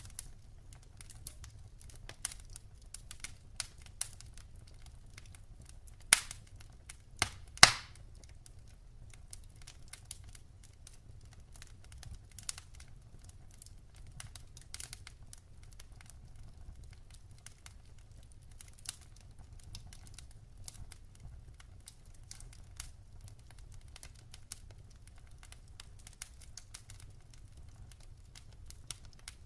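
Firewood burning in a wood fireplace, crackling with scattered small clicks and a few louder pops about six to eight seconds in, over a faint low rumble.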